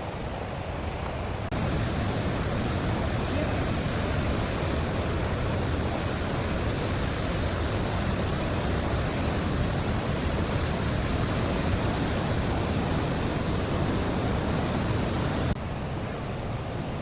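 Naena Falls waterfall: the steady rush of falling water. It gets abruptly louder about a second and a half in and drops back just as abruptly near the end.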